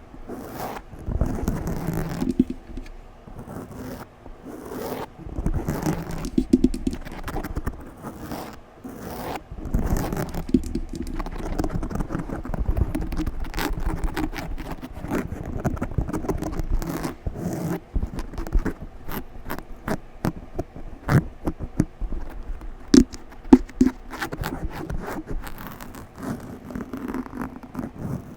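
Aggressive scratching directly on a microphone. It makes a loud, dense, irregular run of scrapes and crackles, heavy in the low end, with a few sharper pops near the end.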